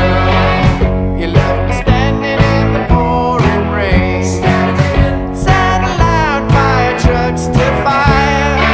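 Indie rock song with a steady drum beat, bass and guitar, and a voice singing over it.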